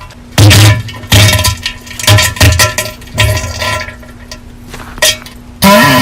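Diarrhoea sounds: a run of loud, wet, irregular bursts with a low rumble, about seven in all, some short and one longer near the end.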